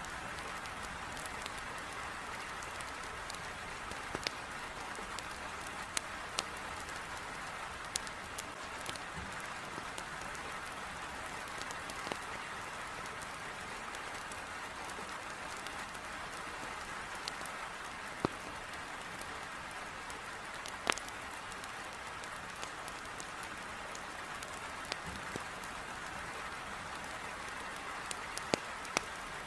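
Heavy rain beating steadily on a window, with a dozen or so sharp, irregular pops and crackles from burning firewood in a fireplace.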